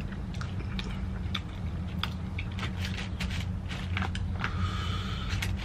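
A person chewing crunchy battered onion rings, with scattered wet mouth clicks and crackles over a steady low hum. Near the end comes a scratchy squeak as a plastic fork scoops fries in a foam takeout container.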